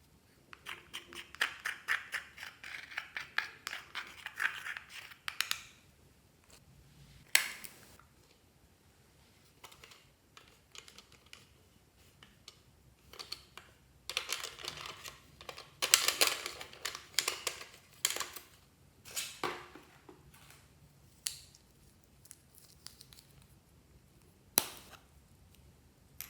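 Slime being squeezed and worked by hand, giving two long runs of quick crackling, popping clicks, with a few single sharp snaps between them.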